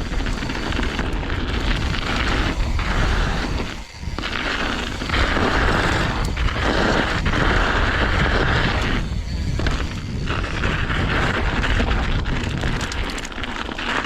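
Wind buffeting the microphone and tyre noise from a mountain bike riding down a dirt jump trail with patches of snow. It is loud throughout, with short dips about four seconds in and again around nine seconds.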